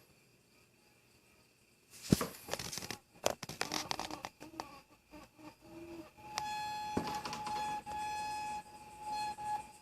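Metallic clicking and rattling from a slowly moved mountain bike, which the owner traces to the rear Avid Elixir 3 hydraulic brake line. It is followed by a steady high ringing tone lasting about three seconds, with a few brief breaks.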